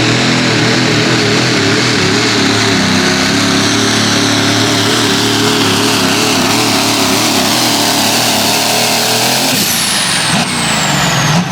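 Turbo diesel four-wheel-drive pulling truck engine running hard at full throttle under load, its pitch wavering slightly. About nine and a half seconds in the throttle drops, the engine note changes and a high turbo whistle falls steadily in pitch as it winds down.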